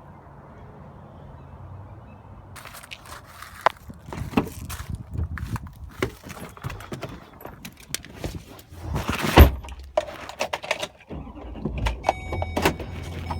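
A run of irregular clicks, knocks and rustling, with one louder thump about nine seconds in.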